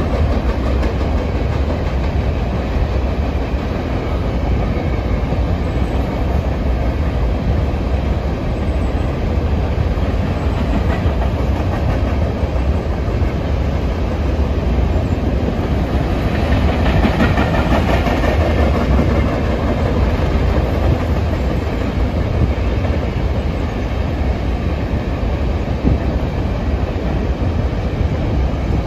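Freight train cars rolling past, a steady rumble of steel wheels on rail with rapid clicking from the wheels.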